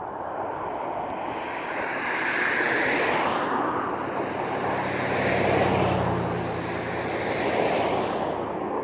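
An aircraft flying past: a rushing engine noise that swells about two seconds in, with faint high whines that fall in pitch, and eases off near the end.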